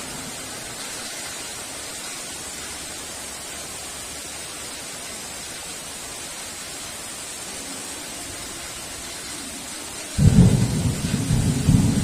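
Heavy rain falling in a steady hiss, then about ten seconds in a sudden loud, low clap of thunder breaks in and keeps rumbling.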